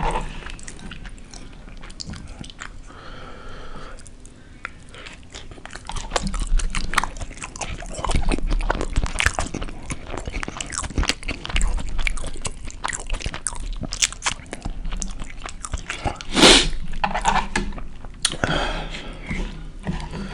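Close-miked chewing and biting of a burrito, a dense run of wet mouth clicks and smacks, with one louder bite or smack about three-quarters of the way through.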